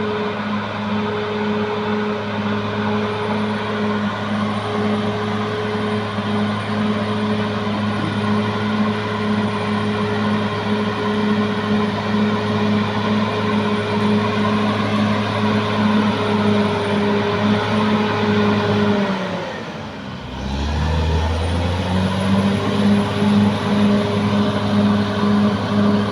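Caterpillar D6R XL bulldozer's diesel engine running steadily, with a faint high whine over it. About nineteen seconds in, the engine note drops sharply, then comes back up about two seconds later.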